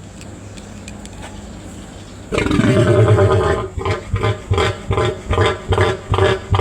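A farm animal's loud call starts about two seconds in, held for over a second, then breaks into a rhythmic run of short pulsing calls, about two to three a second.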